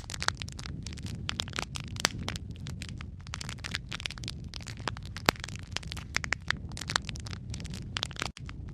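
Wood fire in a fireplace crackling: dense, irregular snaps and pops over a steady low rumble, with a few louder pops about two and five seconds in. A split-second dropout comes near the end.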